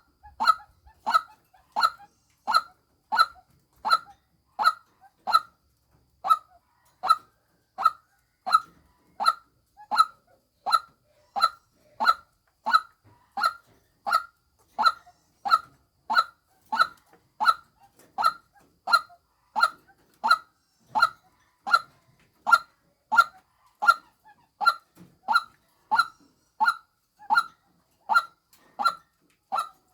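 White-breasted waterhen calling: the lure call of the female. It is a single short note repeated in an even rhythm, about one and a half calls a second.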